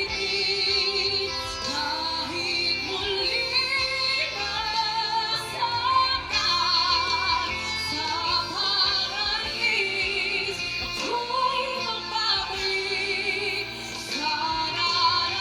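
A woman singing a heartbreak ballad, holding long notes with a wide vibrato over instrumental backing.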